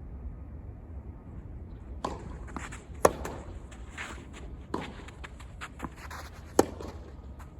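Tennis ball impacts on court, racket strokes and bounces, scattered from about two seconds in. Two sharp, loud hits stand out, about three and a half seconds apart, over a steady low rumble.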